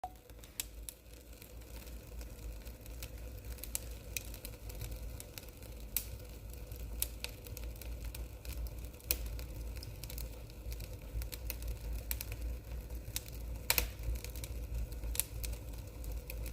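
Wood fire crackling in a fireplace: irregular sharp snaps and pops over a low steady rumble, with a brief cluster of louder snaps near the end.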